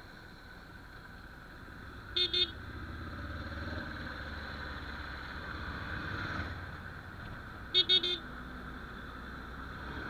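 Vehicle horn beeping in traffic: two short beeps about two seconds in, then three more later on. Under it runs the steady rumble of road traffic and the ride.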